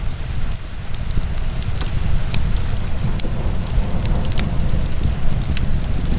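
Wood fire burning in a fireplace, crackling with sharp, irregular pops over a low, steady rumble.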